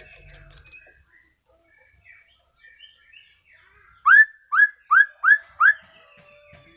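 White-rumped shama (murai batu medan) singing: faint scattered chirps and twitters, then five loud rising whistled notes in quick succession, about three a second, starting about four seconds in.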